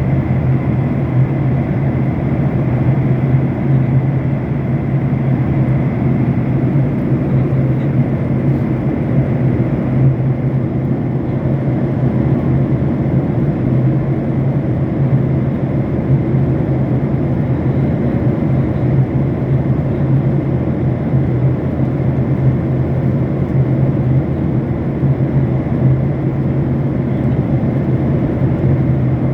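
Steady drone of an airliner cabin in flight: engine and airflow noise with a low hum and a faint high whine.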